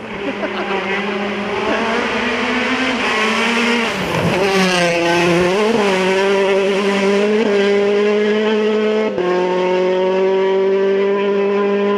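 A WRC2 rally car's engine running hard at high revs. The revs dip and climb back about four to five seconds in, then hold high with a brief break in the note about nine seconds in.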